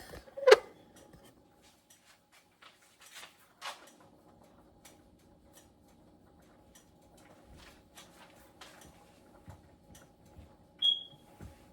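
Kitchen handling sounds as small squares of dumpling dough are peeled off the table and dropped into a pot: scattered light taps and clicks. There is a short squeak about half a second in and a brief high chirp near the end, over a faint steady hum.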